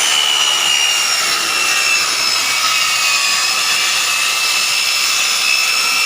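Circular saw cutting through wood, a steady loud whine whose pitch sags slightly in the first few seconds as the blade works through the cut.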